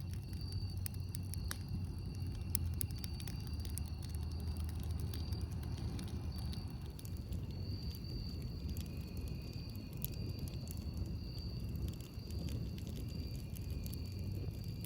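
Campfire crackling, with frequent sharp pops and snaps over a steady low rumble. A thin high-pitched tone keeps breaking off and coming back throughout.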